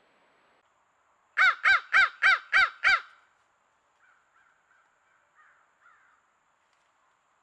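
A crow cawing six times in quick succession, about three caws a second, each caw a harsh call that rises and falls in pitch.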